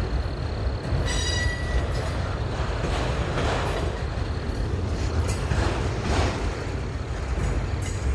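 Long freight train rolling past, a steady low rumble of wheels on rail, with a brief high wheel squeal about a second in and swells of rail noise around three and six seconds.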